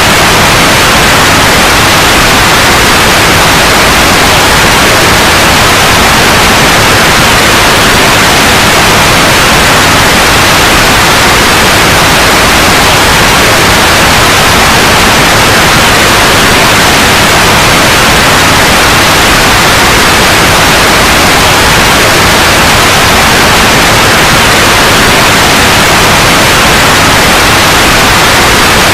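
Steady white noise: a loud, even hiss that does not change.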